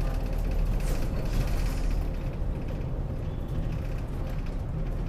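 Interior of a city route bus: a steady low engine rumble with creaks and rattles from the cabin fittings.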